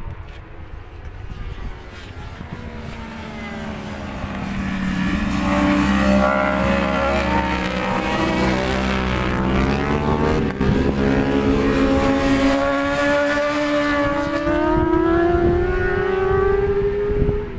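Track-day motorcycle engine getting louder about five seconds in, then running steadily loud; its pitch sags briefly in the middle and then climbs again toward the end.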